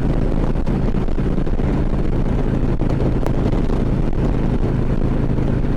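Harley-Davidson V-twin engine running steadily at highway cruising speed, with wind rushing over the helmet microphone.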